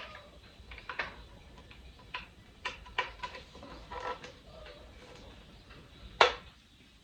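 Scattered small plastic clicks and taps from handling a rain-cloud humidifier and its charger cable, with one sharp, loud click about six seconds in.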